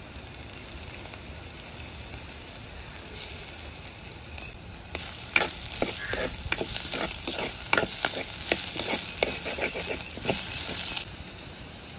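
Potatoes, onion and curry leaves sizzling as they fry in oil in a pot. From about five seconds in, a spoon stirs them, scraping and knocking against the pot in quick strokes, and it stops about a second before the end.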